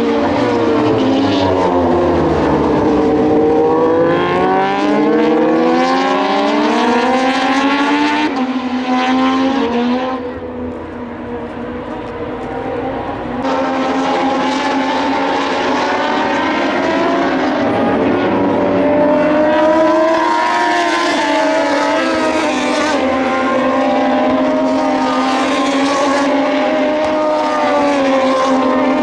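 Moto2 racing motorcycles' Triumph 765 cc three-cylinder engines running at racing speed past the grandstand, their notes falling and rising as the riders brake, shift gears and accelerate. The sound drops somewhat about ten seconds in and builds again, with several bikes heard at once near the end.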